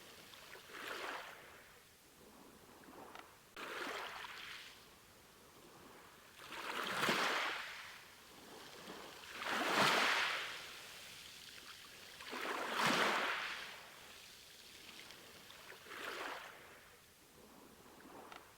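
Sea waves washing in and drawing back, a surge of surf noise about every three seconds, six in all, the loudest about halfway through.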